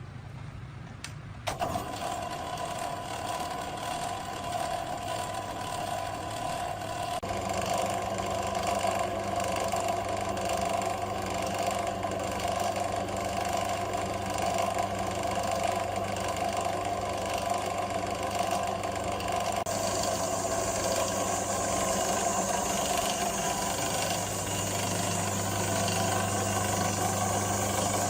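Restored air compressor engine starting up about a second and a half in, then running steadily. A deeper hum joins at about seven seconds.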